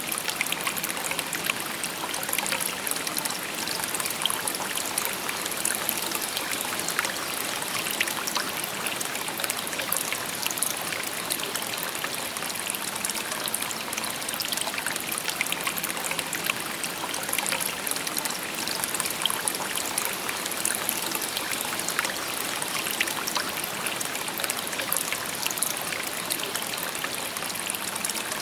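A shallow stream babbling steadily over stones, an even rushing wash flecked with many small splashes and trickles.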